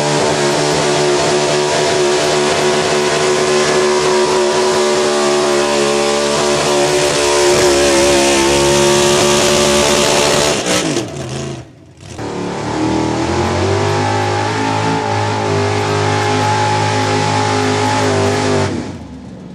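A pulling truck's engine running hard at full throttle under the load of the pull. About eleven seconds in it falls away and breaks off, then picks up again and holds a steady pitch until it cuts off suddenly near the end.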